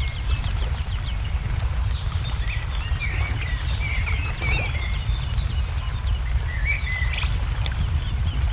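Wood fire crackling with scattered sharp pops over a steady low rumble, while small birds chirp in short bursts in the background.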